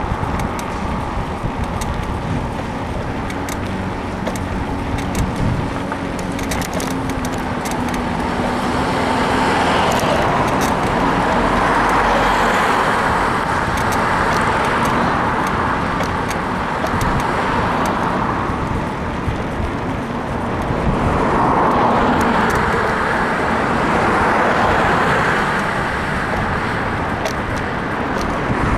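Road traffic around a moving bicycle, with two cars swelling past, about a third of the way in and again about three quarters through. Over it come repeated short creaks and clicks from the bike's suspension frame, which the rider puts down to a worn suspension bushing.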